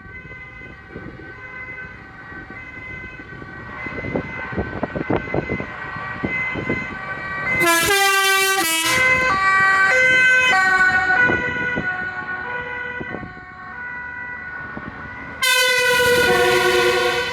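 Truck horns sounding one after another and overlapping, several held tones at different pitches, over running engines. A loud horn blast comes about eight seconds in and another near the end.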